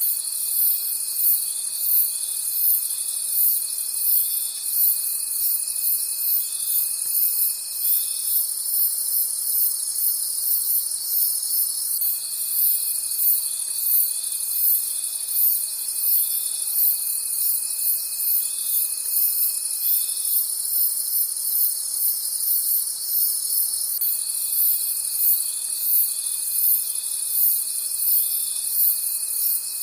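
Crickets chirping in a dense night chorus of rapid, even pulses, with a steady high trill that drops out twice for a few seconds and comes back.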